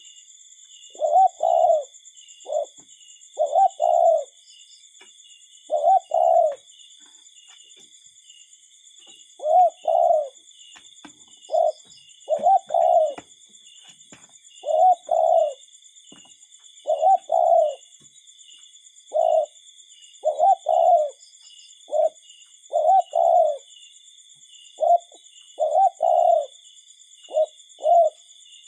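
Common cuckoo calling over and over: a two-note "cuck-oo" with the second note lower, repeated every one to three seconds, now and then cut to a single note. A faint steady high-pitched trill runs underneath.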